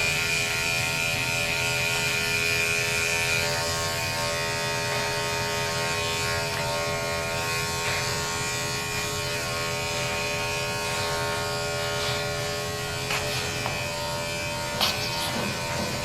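Electric dog grooming clippers running with a steady buzz, with a few short clicks near the end.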